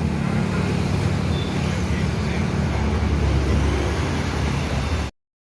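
Car engine idling steadily close by, then cutting off suddenly near the end.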